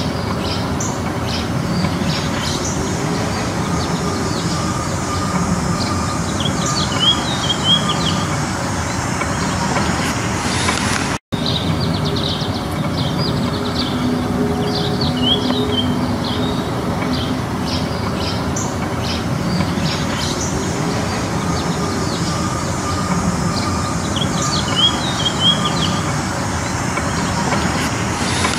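Backyard birds chirping and singing in short scattered calls over a steady low rumble of background noise. The sound drops out for an instant about eleven seconds in.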